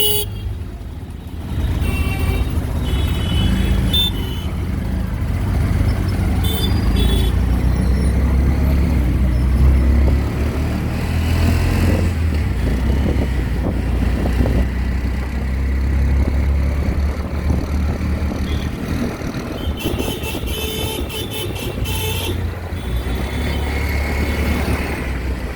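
Riding in an auto-rickshaw through city traffic: a steady low engine and road rumble, with vehicle horns honking several times, including a longer run of honks about twenty seconds in.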